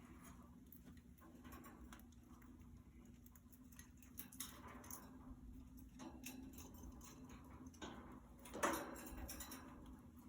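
Budgies moving about a wire cage: scattered light clicks and taps of claws and beaks on bars and perches, with one louder knock near the end, over a faint steady hum.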